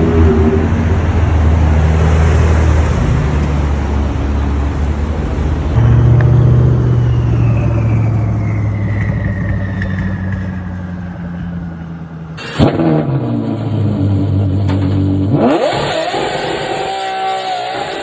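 Loud high-performance car engines on the road across several short clips: a heavy exhaust note, a car going by with a falling whine, a sharp crack about twelve seconds in, then an engine revving up quickly.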